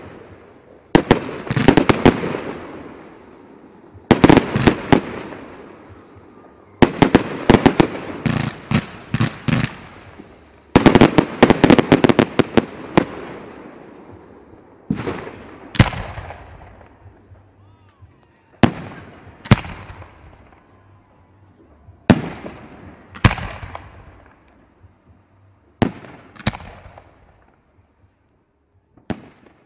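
Fireworks exploding: rapid volleys of sharp bangs, each trailed by a rumbling echo, for the first dozen seconds. After that come single pairs of bangs a few seconds apart.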